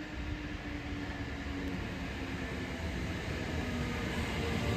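Kintetsu 9000 series electric train running into the station, a low rumble with a faint motor hum that slowly falls in pitch as it slows, growing louder as it nears.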